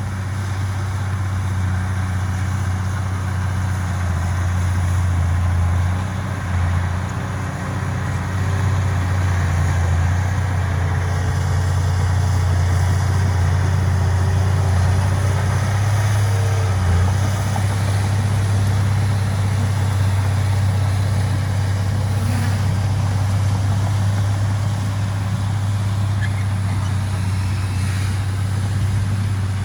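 Heavy diesel engine running steadily with a deep, even hum, from the earthmoving machinery at work.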